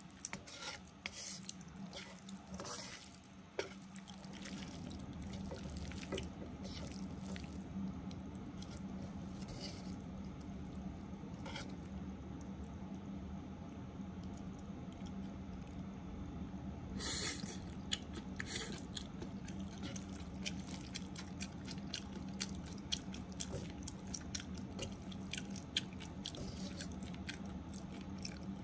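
Spaghetti stir-frying in a wok: light crackling and sizzling as chopsticks lift and toss the noodles, with scattered clicks against the pan and a sharper clatter about two-thirds of the way through. A steady low hum sets in about four seconds in.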